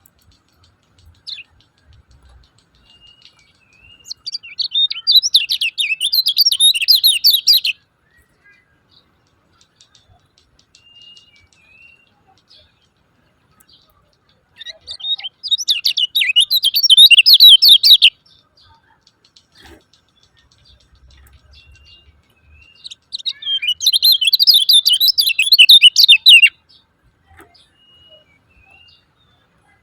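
Kecial kuning (white-eye) giving its 'ciak ciak jos' call: three bursts of rapid, dense high-pitched chattering, each about three seconds long, with faint short chirps in the gaps between them.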